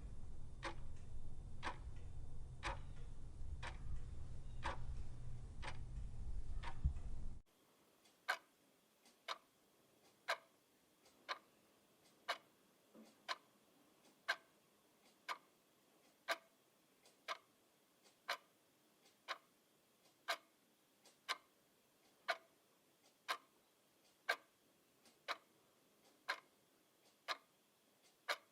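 Clock ticking steadily, about one tick a second, the beats alternating louder and softer as tick and tock. For the first seven seconds a low rumble lies under the ticks, then stops abruptly, leaving the ticks alone.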